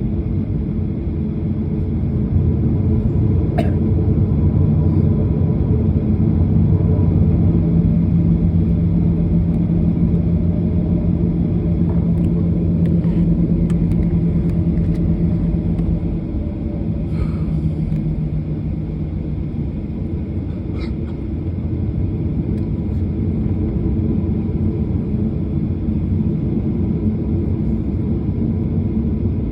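Airliner cabin noise: a steady, deep rumble of engines and airflow heard from inside the cabin. A low hum holds over it for about ten seconds in the middle, then fades.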